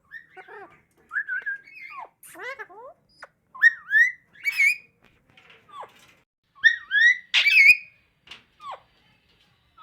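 Alexandrine parakeet vocalising: a run of short whistles and squawky, speech-like chatter, with the loudest calls about a third of the way in and again about three quarters of the way through.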